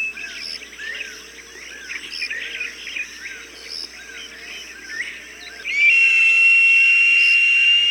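Small birds chirping, short arched chirps repeated over and over. About six seconds in, a loud, long, high-pitched cry of the falcon-call recording starts suddenly and holds steady through the end.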